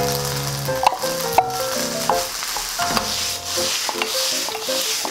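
Fried rice sizzling in a frying pan as stir-fried vegetables are tipped in, then the pan is tossed, so the hiss swells and falls in a rhythm from the middle on. Two sharp clicks come about a second in, and background music plays throughout.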